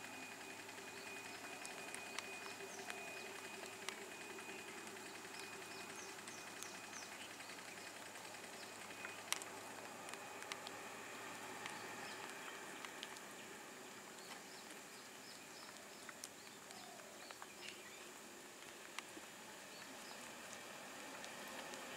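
Quiet outdoor ambience: birds chirping now and then over a steady hiss, with a faint low hum that stops about halfway through and a single sharp click about nine seconds in.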